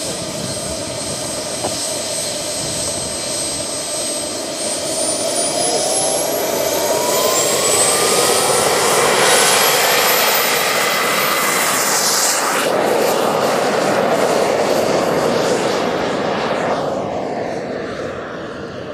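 Model jet turbine (Frank turbine) in a 2 m RC F-86 Sabre spooling up to full power. Its whine rises steadily in pitch over several seconds, then holds a steady high whistle at full thrust. The sound fades near the end.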